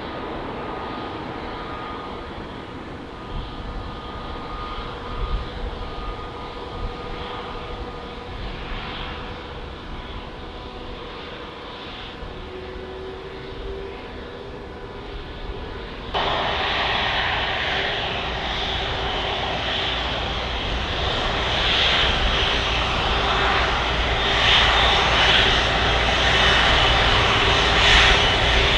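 Jet engines of an Airbus A330-300 airliner running with a steady whine. The noise jumps abruptly louder about halfway through and keeps building toward the end.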